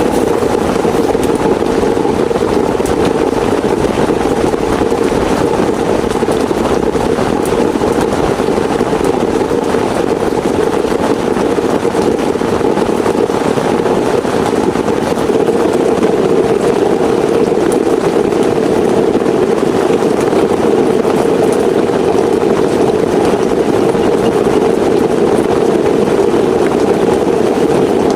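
Heavy rain falling steadily at camp, a loud, even, unbroken rush of noise.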